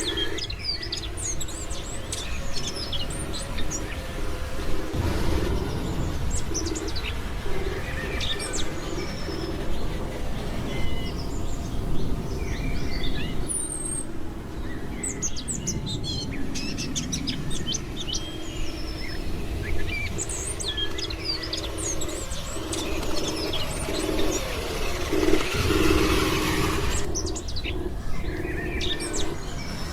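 Small birds chirping and calling repeatedly in short high notes. Underneath is a steady low hum that drops out briefly several times, along with a low rumble.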